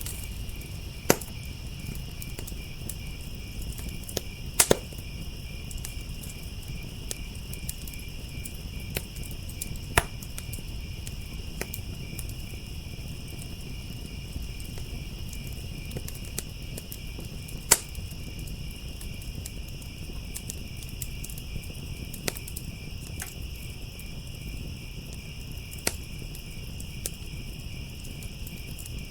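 Crickets chirping in a steady high trill, with a wood fire crackling underneath and giving occasional sharp pops: one about a second in, a quick pair near five seconds, and others spaced several seconds apart.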